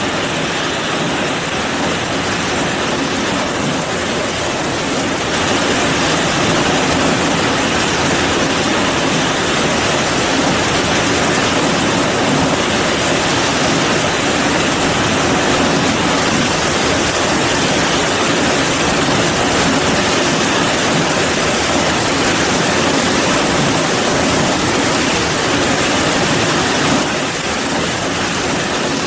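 Steady heavy rain, a dense even hiss. It gets a little louder about five seconds in and drops back near the end.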